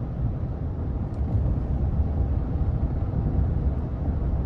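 Steady low rumble of a Toyota Tundra Capstone pickup on the move, heard from inside the cabin.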